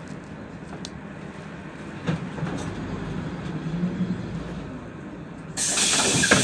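Inside a PAZ 32054 bus: the engine hums steadily under body rattle, swelling for a couple of seconds mid-way. Near the end a loud hiss of compressed air starts suddenly, the bus's pneumatic system venting as it stops and the doors begin to work.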